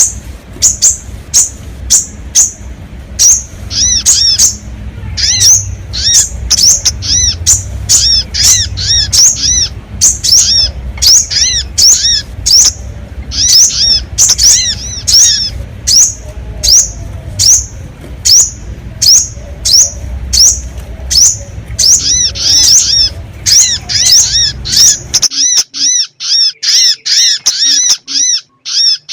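Bird-trapping lure call ('sogon' pikat): rapid, repeated short high chirps, each note arching up and down, two to three a second, in an unbroken run. A low rumble underneath cuts off suddenly about 25 seconds in.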